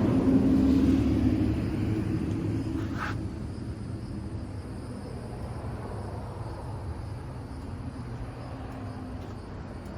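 Yamaha V Star 950's air-cooled V-twin engine running through an aftermarket Cobra exhaust. It is loudest in the first second or two, then fades over a few seconds to a steady low rumble.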